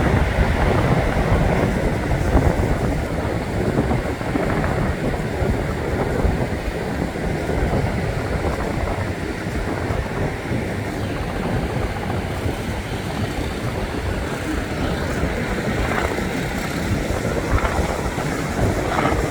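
Wind buffeting the microphone over the steady running of a tour helicopter's rotor and engine in flight. No single event stands out.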